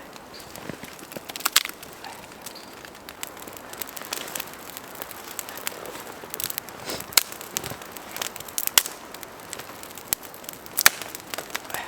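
Wood fire crackling over a steady low hiss, with irregular sharp pops, a few louder ones standing out.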